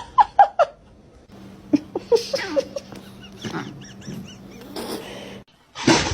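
Pet animals calling in a run of separate clips: short, quick, squeaky calls at first, then short calls over a steady hum, and near the end a cat starting a loud yowl.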